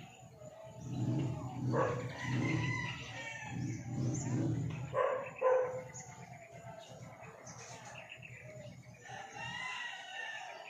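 Birds chirping and calling, with a louder stretch of calls from about one to five seconds in and another short burst of calls near the end.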